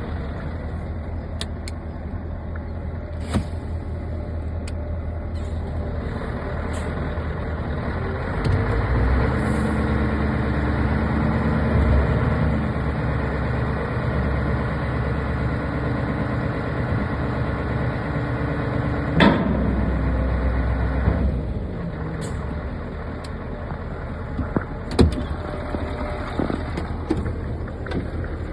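Scania R164 tipper truck's V8 diesel engine running. It gets louder, with an added steady hum, about eight or nine seconds in, and settles back about twenty-one seconds in. A few sharp clicks or knocks come through, the loudest about nineteen seconds in.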